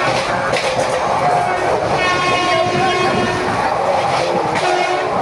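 Passenger train running, heard from inside a carriage at an open window: a steady rush and rumble, with a few sharp clacks of the wheels over rail joints. Held pitched tones that shift pitch every second or so sound over the noise.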